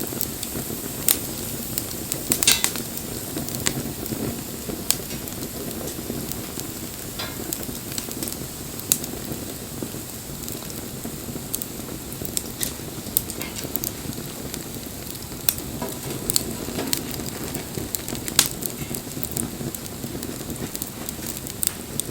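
Wood fire burning, a steady hiss and rumble of flames with scattered sharp crackles and pops, a few louder pops about two and a half seconds in and near the end.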